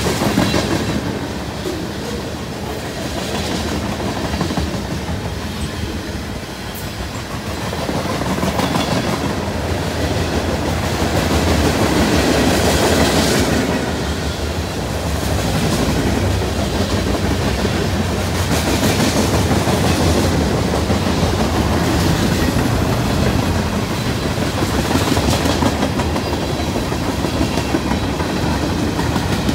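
Cars of a CSX manifest freight train (tank cars, covered hoppers, gondolas) rolling past: a continuous rumble of steel wheels on rail with clickety-clack over the rail joints, a little louder from about eight seconds in.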